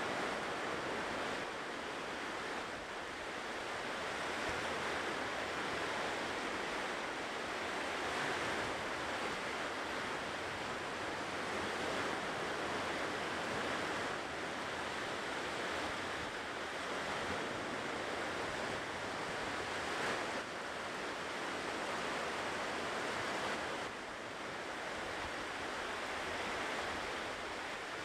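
Ocean surf washing onto a shore in a steady, continuous rush, swelling and easing gently.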